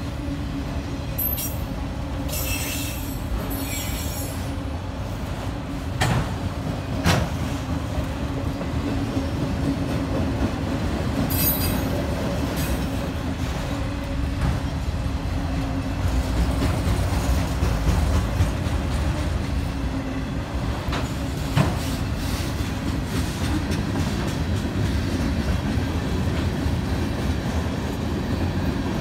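Freight cars rolling past at a grade crossing: a steady rumble of steel wheels on rail, with brief high squeals of the wheels near the start and about 11 seconds in, and a few sharp clanks at about 6, 7 and 21 seconds.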